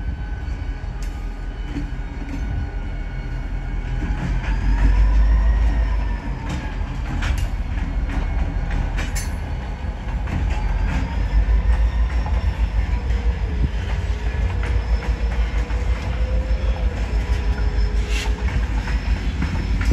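Freight train passing: diesel-electric locomotives rumble by, then loaded gondola cars roll past with a quick, rhythmic clatter of wheels over the rail joints. Thin, wavering wheel squeal runs over it.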